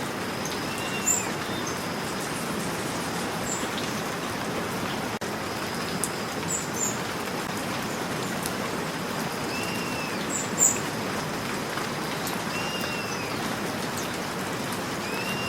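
Steady rain falling, with a few louder single drops landing. Short arched bird calls repeat every few seconds over the rain, with faint high chirps.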